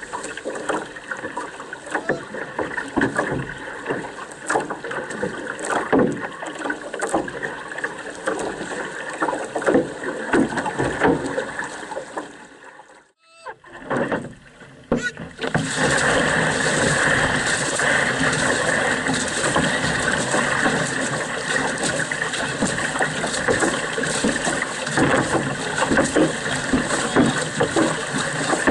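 Canoe paddles stroking through the water in a steady run of splashes, with water and wind rushing past. The sound drops out almost completely for a moment about halfway through, then comes back as a louder, steadier rush.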